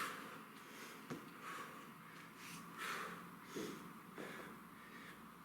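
A man breathing hard, a series of short, faint breaths with the strongest at the start, from the effort of standing up out of a Turkish get-up with a kettlebell held overhead.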